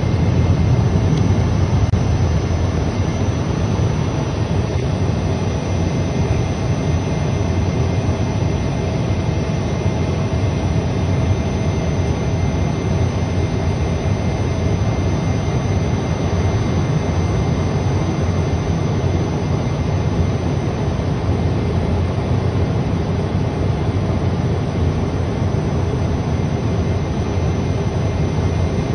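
Jet airliner cabin noise in flight: a steady, unchanging hum of engine and airflow, heaviest in the low range, with faint steady whines above it.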